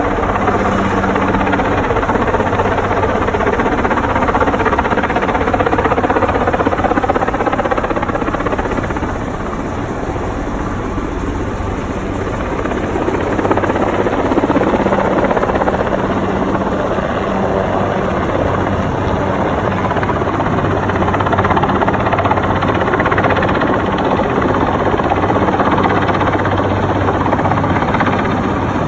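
Helicopter running steadily overhead: a continuous rotor and engine noise whose tone slowly sweeps and shifts as it moves.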